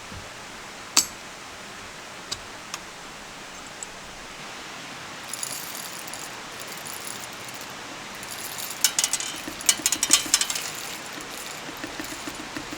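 A run of light clicks, clinks and rattles from small hard objects being handled, densest near the middle and end, over the steady hiss of a flowing stream. A few single sharp clicks come first.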